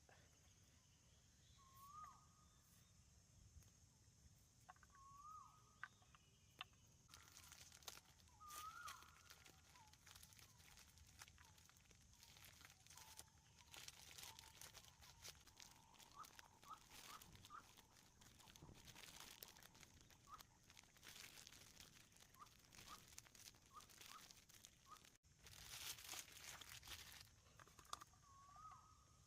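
Quiet outdoor ambience. A bird gives a short hooked call every few seconds over a faint steady high hiss, with scattered clicks and rustles through the middle stretch.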